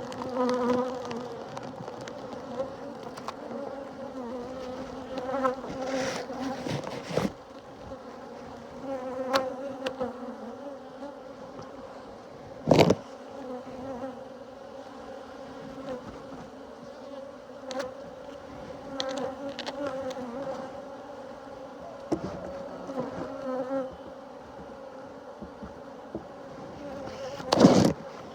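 Honeybees buzzing steadily around an open hive, a droning hum with a few sharp knocks, the loudest about halfway and near the end.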